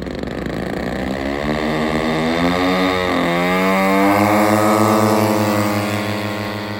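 Twin DLE 55cc single-cylinder two-stroke gas engines of a large RC P-38 model powering up for takeoff. Their pitch climbs, dips briefly about three seconds in, then rises again. The engines are loudest about four to five seconds in, then the pitch and level slowly fall as the plane pulls away.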